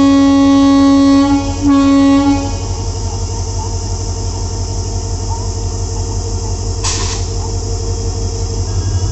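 WDP4D diesel locomotive sounding its horn in a long blast, broken briefly and ending about two and a half seconds in. The horn gives way to the steady rumble of the train running, with a short hiss about seven seconds in.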